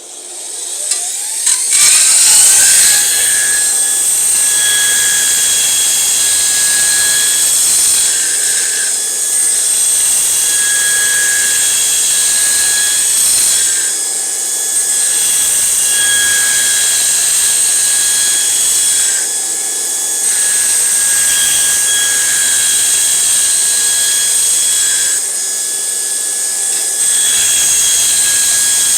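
Burr King 760 belt grinder spinning up, then running with a steady high whine while a steel lawnmower blade is ground against the belt. The grinding noise drops off briefly four times between passes.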